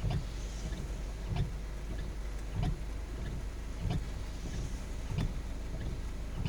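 Car windshield wipers sweeping in heavy rain, with a thump and click at the end of each sweep about every 1.3 seconds, over a steady low car hum and the hiss of rain.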